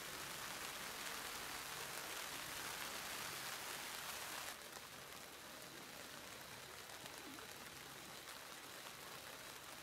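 Steady rain falling, an even hiss of drops; it drops suddenly to a quieter level about halfway through.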